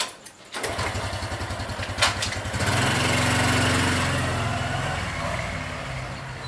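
Small motorcycle engine starting and running, revving up a couple of seconds in, then fading slowly as it rides away.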